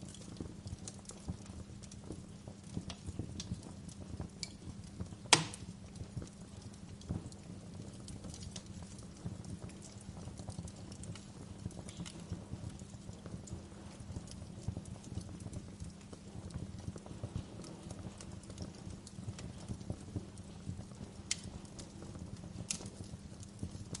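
Wood fire crackling: a steady run of small irregular crackles and pops, with one sharp, loud pop about five seconds in and a couple of crisper snaps near the end.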